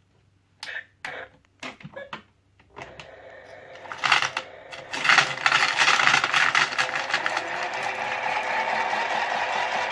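A few plastic clicks and knocks, then a toy washing machine's small electric motor starts about three seconds in and runs steadily, its plastic drum spinning with a fast rattle that grows louder about a second later.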